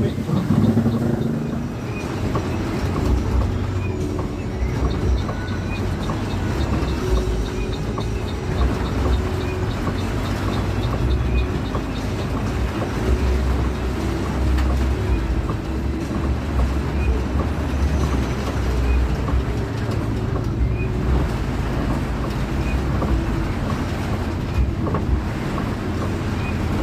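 Cabin noise of a moving Pelita Paradep bus: the engine and road rumble run steadily, with a faint, regular tick above them.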